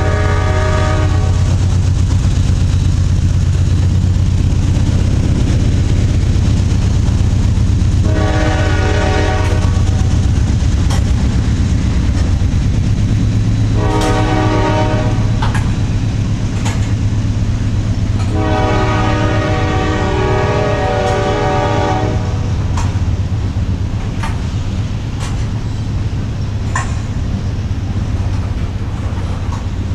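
Loaded covered hopper cars of a freight train rolling past with a steady low rumble and scattered clicks of wheels over rail joints. Over it the lead locomotive's multi-chime horn, a Nathan K5LA, sounds repeatedly: a blast ending at the very start, two shorter blasts, then one long blast of about three seconds.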